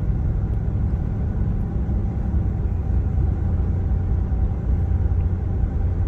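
Steady low rumble of a car driving: engine and road noise, even throughout.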